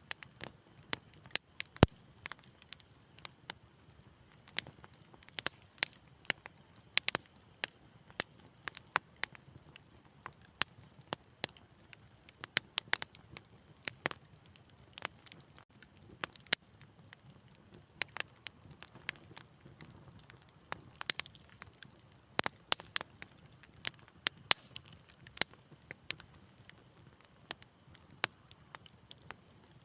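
Wood fire crackling steadily, with frequent irregular sharp pops and snaps over a faint low rush of burning; one louder pop about two seconds in.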